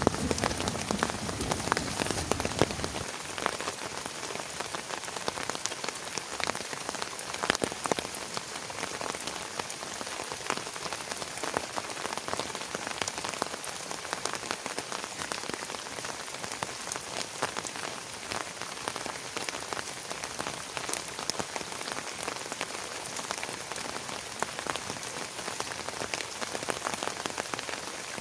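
Heavy rain pattering on a surface as a dense, steady hiss of many small drop impacts. A low rumble underneath stops about three seconds in.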